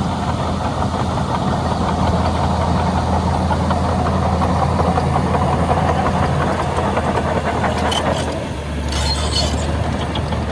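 Shantui DH17C2 bulldozer's diesel engine running steadily, easing briefly about eight seconds in, followed by a short burst of metallic clanking and rattling.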